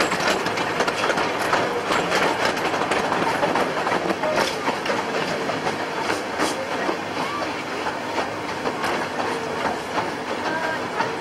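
Miniature railway train running on the line, heard from on board: a steady rumble of wheels with many sharp clicks and rattles from the track and carriages.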